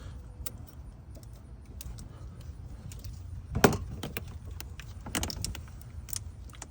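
Scattered small clicks and clinks of fuel-injection test-kit adapter fittings being handled and tried on a fuel line fitting, with one louder knock about three and a half seconds in and a few more clicks near the end, over a steady low rumble.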